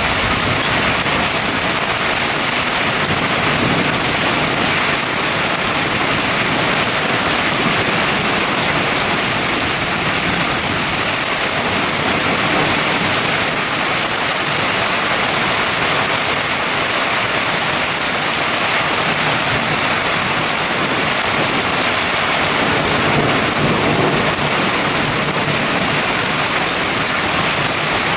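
Heavy rain falling steadily during a thunderstorm, an unbroken bright hiss that holds level throughout.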